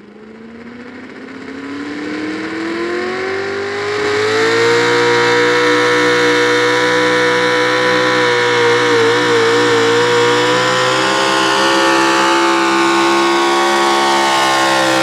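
Pro stock four-wheel-drive pulling truck's engine rising in pitch over the first few seconds, then held at high revs, loud and steady, under load on a pull. There is a brief wobble in pitch about nine seconds in.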